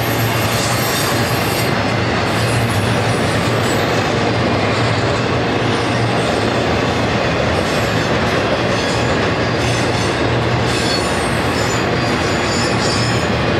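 Intermodal freight train's trailer-carrying flatcars rolling past: a steady, loud rumble of steel wheels on rail, with faint high wheel squeal now and then, more of it in the second half.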